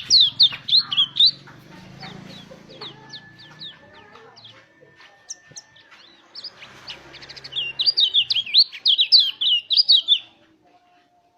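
White-eye (pleci) singing in fast runs of high, sweeping chirps and trills. The song is loudest in the first second or so and again for about two and a half seconds near the end, with sparser chirping in between. It stops about a second before the end.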